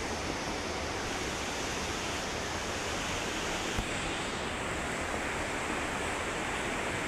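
Steady rushing roar of Thomson's Falls, a large waterfall, heard from the gorge below it.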